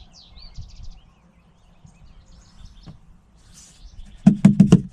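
Small birds chirping faintly, then near the end a rapid run of about six low gulps as engine oil glugs out of the bottle into the filler neck.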